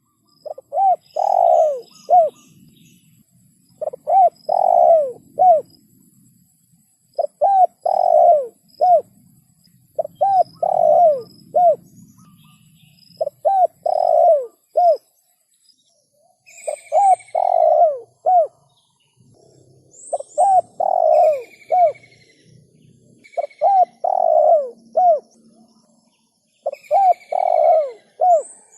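Spotted dove (tekukur) cooing: a phrase of about four cooing notes, repeated every three seconds or so, about nine times. Faint chirps and high whistles of small birds sound between the phrases.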